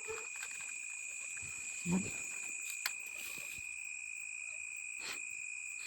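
Night insects, crickets among them, calling in a steady chorus of continuous high trilling at two pitches. A few sharp clicks and a brief low vocal sound come through, the vocal sound about two seconds in.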